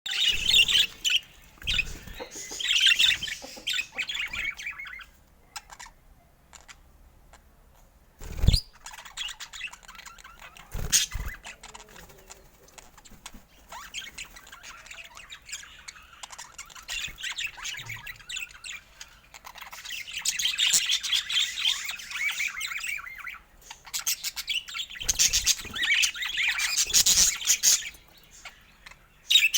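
Budgerigars chattering and chirping in long bursts, with two sharp knocks, the loudest sounds, about eight and eleven seconds in.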